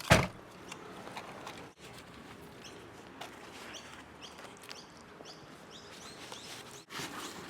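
Small birds chirping in short, repeated calls, with a brief loud knock at the very start.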